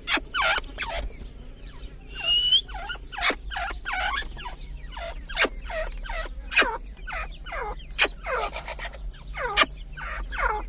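Grey francolins (dakhni teetar) calling, a run of quick downward-sliding notes repeating throughout, with sharp clicks between them and a short rising whistle about two seconds in.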